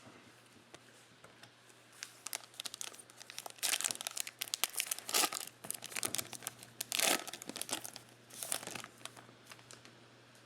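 Plastic wrapper of a Mosaic football trading-card pack being torn open and crinkled. It makes a run of crackling bursts that starts about two seconds in, with the loudest bursts around the middle.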